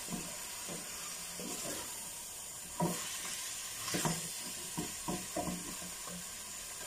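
Chicken sizzling as it fries in a pot, browning in oil with garlic. A wooden spatula stirs it, scraping and knocking against the pot several times at irregular intervals.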